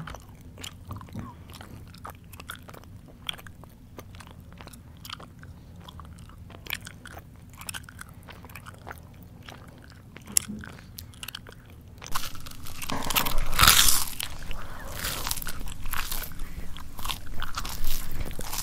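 Close-miked chewing: scattered mouth clicks and smacks for most of the stretch, then abruptly louder, dense crunching about two-thirds of the way through.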